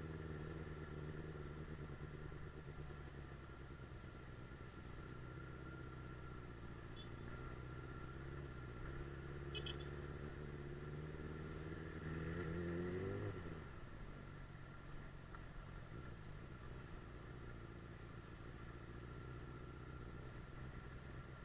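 Suzuki GSF 600 Bandit S inline-four engine running while riding. About twelve seconds in it rises in pitch and gets louder, then drops sharply as the throttle is closed.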